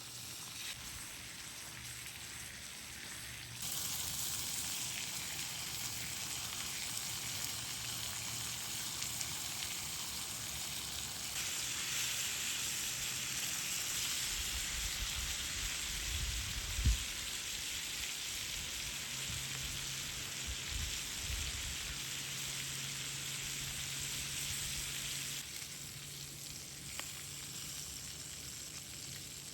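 Food frying in a pan, a steady sizzle that grows louder a few seconds in and eases off near the end. A few low knocks come about halfway through, with one sharper thump.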